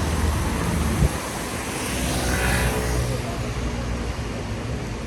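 Motor vehicle engine running as it passes on a rain-wet city street, with a steady low hum over a hiss of traffic. There is one sharp knock about a second in.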